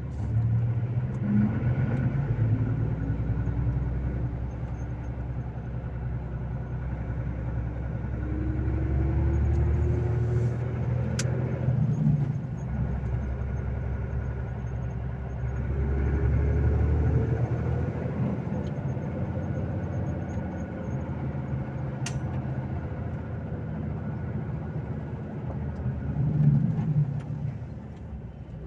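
Volvo FH 460 truck's 13-litre six-cylinder diesel running under way, its pitch climbing slowly as it pulls and then dropping back at gear changes, with low engine drone throughout.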